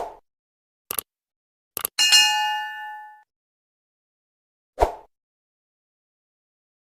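Edited-in sound effect: two short clicks, then a single bell ding that rings for about a second, and another click about five seconds in, with dead silence between them.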